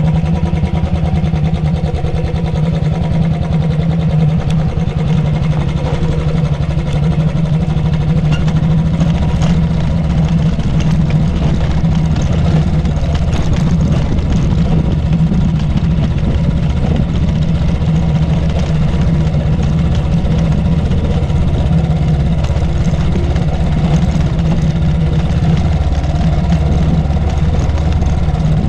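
Royal Enfield Thunderbird's air-cooled single-cylinder engine running steadily under way, a low, even engine note with no clear revving.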